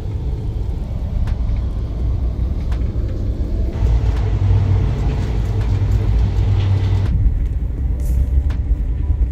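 Overnight sleeper train heard from inside the carriage: a steady low running rumble with sharp clicks every second or so. A louder hiss joins for a few seconds in the middle.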